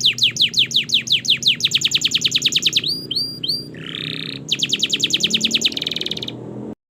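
Domestic canary singing a long song: fast trills of repeated down-sliding notes, about eight a second and then quicker, broken by a few short chirps and a buzzy note about four seconds in. Another fast trill follows before the song cuts off abruptly near the end.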